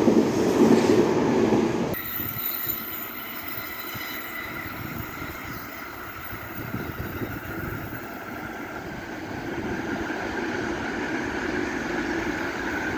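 Electric train running on the rails: a loud rush of wheel and rail noise that drops away sharply about two seconds in. A quieter steady running sound follows, with a faint high whine, and it swells again toward the end.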